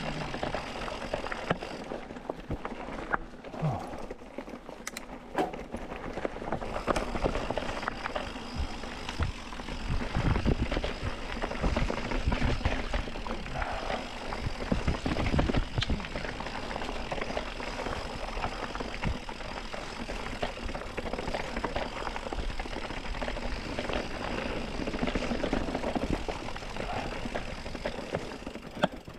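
Mountain bike riding over rocky singletrack, its tyres, chain and frame rattling and knocking over the rocks in a continuous clatter with occasional heavier thumps.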